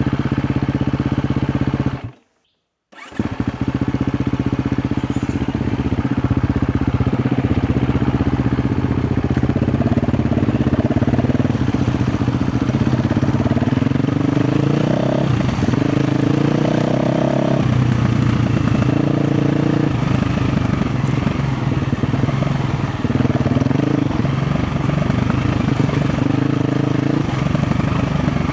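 KTM 350 XC-F's single-cylinder four-stroke engine running under trail riding, the revs rising and falling again and again as the throttle is worked. The sound cuts out completely for about a second near the start.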